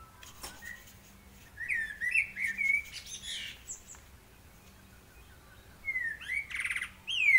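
Bird chirping: two bouts of quick chirps that sweep up and down in pitch, the first starting about a second and a half in, the second near the end with a fast buzzy trill.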